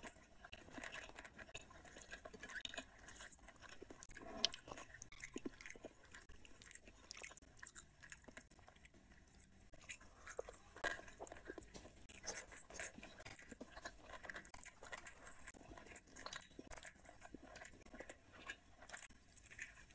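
A person chewing and biting mutton curry and rice eaten by hand, with wet mouth smacks and crunchy bites in quick irregular clicks. One sharper click comes about four and a half seconds in.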